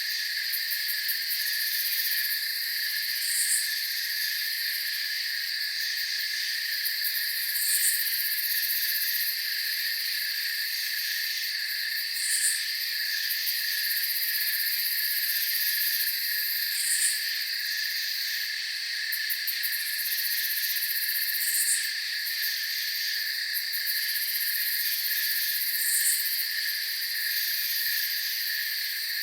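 Night-time chorus of crickets trilling steadily in several overlapping high layers, with a short, higher chirp repeating about every four and a half seconds.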